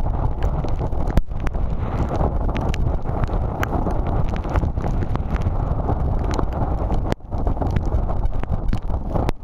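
Storm-force wind blasting the camera microphone: a steady, loud low rush with frequent crackles, cutting out briefly twice, about a second in and about seven seconds in.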